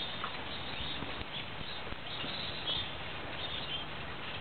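Birds chirping: a few short, high chirps over steady outdoor background noise with a faint low hum.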